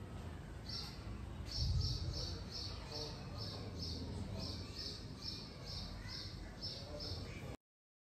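A bird chirping over and over, short high chirps at about three a second, over a low background rumble; the sound cuts off suddenly near the end.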